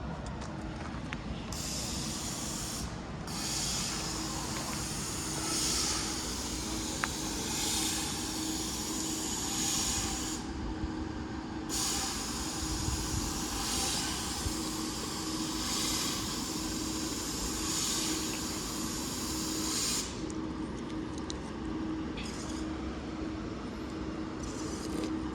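Class 397 electric multiple unit standing at the platform: a steady hum under long stretches of hissing air that stop abruptly, about ten seconds in and again near the end.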